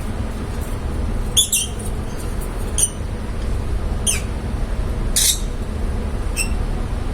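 Lovebirds giving short, sharp, high chirps, about one a second, over a steady low background rumble.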